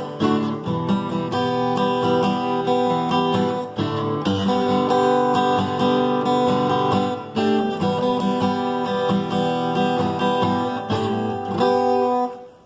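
Guitar strummed in steady rhythmic chords, playing without a voice; the strumming stops shortly before the end.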